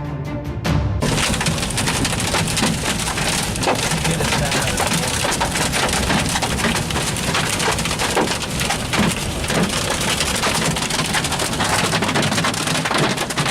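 Dime-sized hail pelting a GMC Sierra pickup in a loud, dense, unbroken clatter of small impacts. Background music cuts off about a second in.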